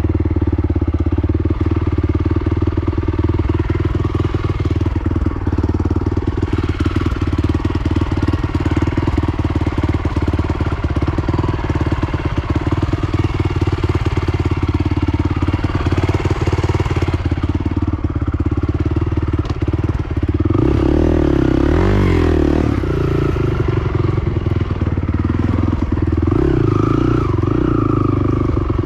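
Honda TRX450 ATV engine running under way on a dirt trail. The revs rise and fall about two-thirds of the way through.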